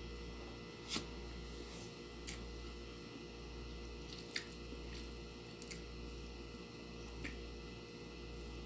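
Quiet eating sounds of rice and egg eaten by hand: soft chewing and mouth noises, with about five short sharp clicks a second or two apart, over a steady low hum.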